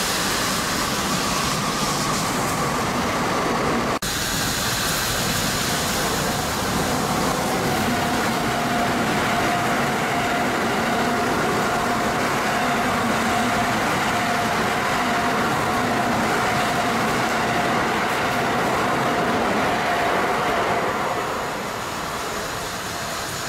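Tokaido Shinkansen trains running through the station slowly in heavy snow: a loud, steady rush of wheels and running gear mixed with blown snow. The sound cuts abruptly about four seconds in to a second passing train, which carries a steady tone through the middle and eases off near the end.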